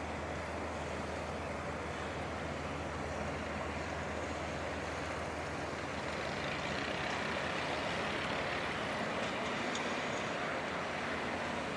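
Tugboat diesel engines running steadily: a low, even hum under a constant rush of noise, growing a little louder about halfway through.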